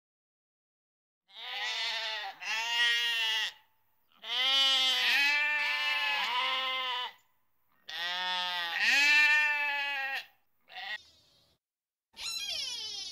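Sheep bleating: a run of long, quavering bleats with short gaps between them, followed near the end by a different call whose pitch slides downward.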